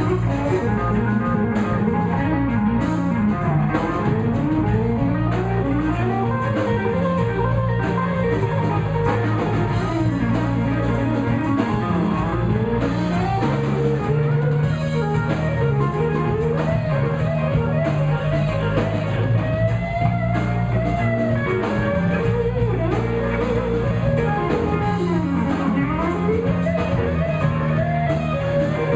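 Live electric blues band playing an instrumental break: an electric guitar solo with bent notes over bass and a drum kit keeping a steady beat.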